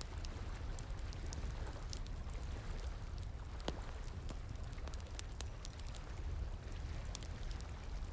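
Wood fire crackling with frequent irregular sharp pops and one louder crack a little past halfway, over a steady rush of flowing water.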